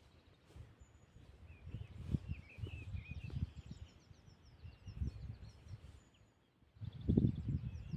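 Small birds chirping and twittering in woodland, with uneven low thuds and rumbles underneath that get louder near the end.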